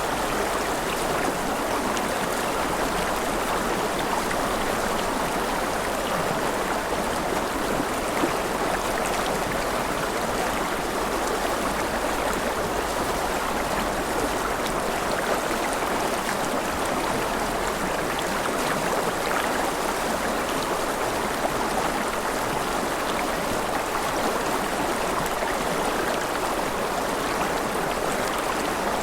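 Mountain river running over rapids: a steady, even rush of flowing water.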